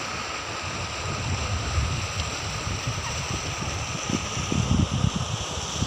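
Steady rushing of flowing river water, with irregular low rumbling swells on the microphone that are strongest near the end.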